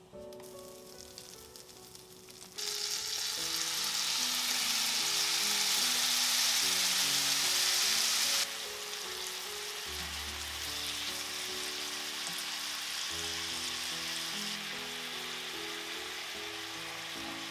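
Bite-sized chicken breast pieces frying in melted butter in a frying pan: a steady sizzle that jumps louder about two and a half seconds in and settles somewhat quieter about eight and a half seconds in.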